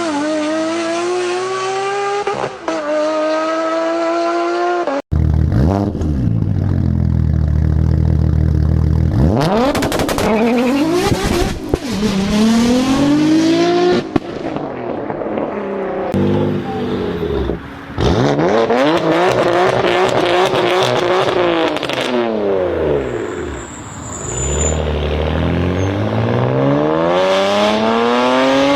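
Performance car engines revving hard and accelerating, heard in several separate recordings one after another. The engine note climbs and drops back at each gear change, with short flat or falling stretches in between.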